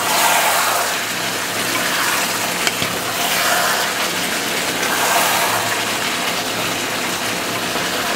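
Chicken and yam curry sizzling in oily masala in a pot while a wooden spatula stirs it during the bhuna stage, the sizzle swelling with each stroke.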